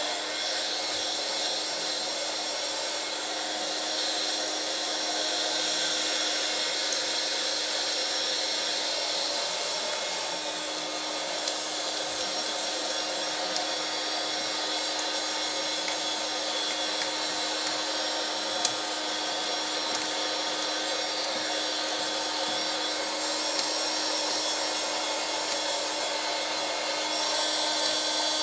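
Vacuum cleaner running steadily, hoovering dust out of the inside of an opened cassette recorder: a constant motor hum under a broad rushing hiss, with one sharp click about two-thirds of the way through.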